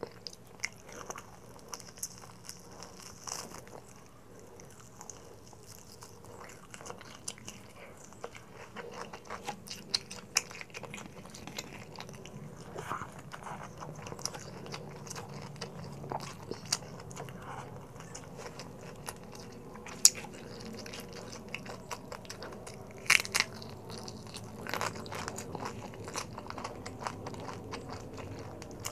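Close-miked chewing of crispy deep-fried pork belly (lechon kawali), with the skin crackling and crunching in many small snaps. A few sharp, louder crunches stand out about a third of the way in and again twice about two thirds of the way in.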